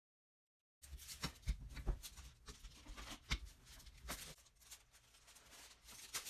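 Faint kitchen handling sounds: light taps, clicks and rustles of parchment paper and a utensil at the pan. They start after about a second of dead silence and are busiest in the first few seconds.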